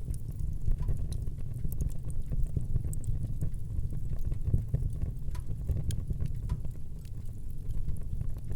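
Wood fire burning in a fireplace: a steady low rumble of flames with frequent sharp crackles and pops scattered through it.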